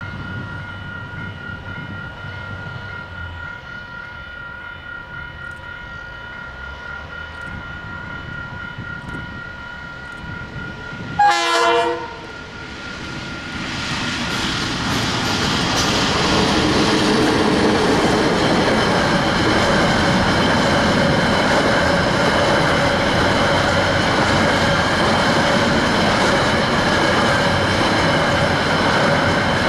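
KiwiRail DXC-class diesel-electric locomotive approaching with a steady engine note. It gives one short horn blast about eleven seconds in, then passes, and its container wagons roll by with clickety-clack over the rail joints and a steady wheel squeal.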